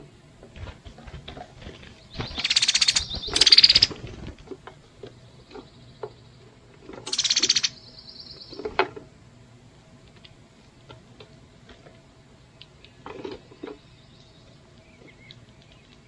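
Harsh, buzzy bird calls: two loud rasping bursts about two to four seconds in and another near seven seconds, each trailing off into a short, thin high note, with a softer burst near thirteen seconds.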